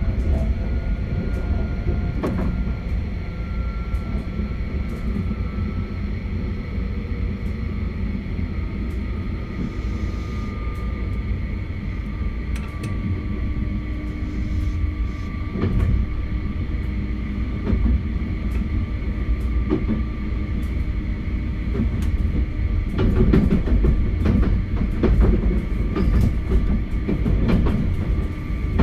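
Running sound of a JR West 271 series electric train with a Hitachi SiC VVVF inverter: a continuous rumble with a thin motor whine that slowly falls in pitch as the train slows. Clicks and clatter from wheels crossing rail joints and points grow denser in the last few seconds.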